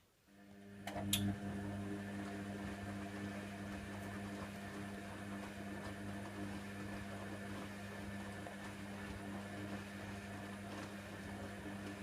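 Hoover Nextra HNWL7146 washer dryer's pump starting up and running with a steady mains hum during the rinse, with a sharp click about a second in.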